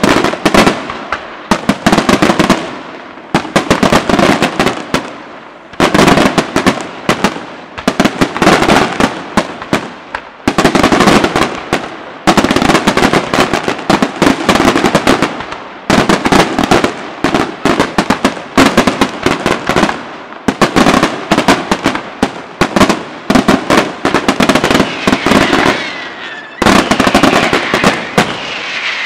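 Aerial firework shells bursting in rapid, overlapping volleys of loud bangs, with short lulls every few seconds. Near the end a dense crackling takes over.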